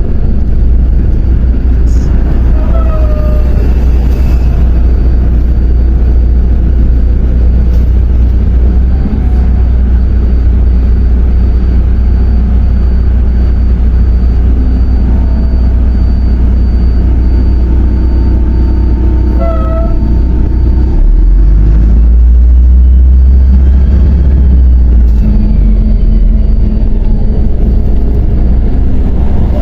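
Ride inside a MAZ 105.065 city bus under way: a steady low rumble from its diesel engine and running gear, with a few short squeaks. About twenty seconds in, the low drone shifts in pitch and grows a little louder.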